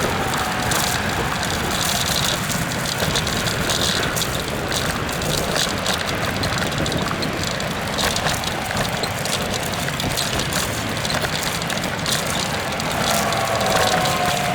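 Steady rush of wind and tyre noise from a ride along a paved trail, with many small rattles and clicks, sped up to double speed. A faint falling whine comes in near the end.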